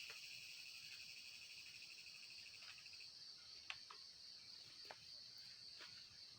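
Crickets and other insects trilling steadily and faintly. One pulsing trill stops about halfway through, and a few faint sharp clicks sound in the second half.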